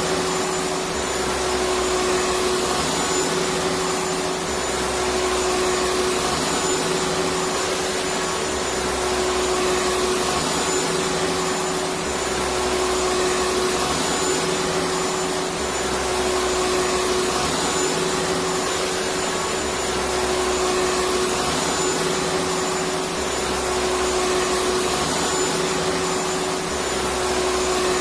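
Electric vacuum cleaner running continuously: a steady rush of air with a constant motor hum. The low end swells and eases in a regular pattern about every three and a half seconds.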